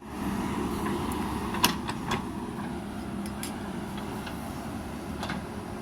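Heavy earthmoving machinery running steadily, a low engine drone, with a few sharp knocks over it, the loudest about a second and a half in.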